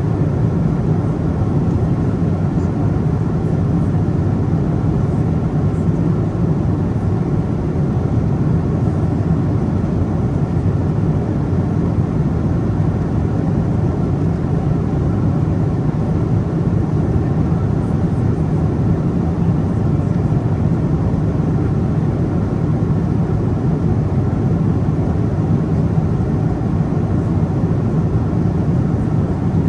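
Steady cabin noise of a Boeing 777-200ER at cruising altitude: a constant low rush of airflow and engine drone in the economy cabin.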